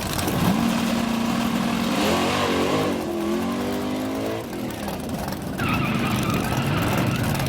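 Vintage drag-racing car engines running loud over a steady roar. One engine's note climbs and holds steady about half a second in, other engine notes waver over it in the middle, and another note rises near the end.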